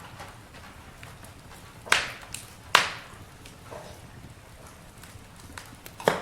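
Wood campfire crackling: three loud sharp pops, about two seconds in, nearly three seconds in and near the end, with smaller ticks over a soft steady hiss.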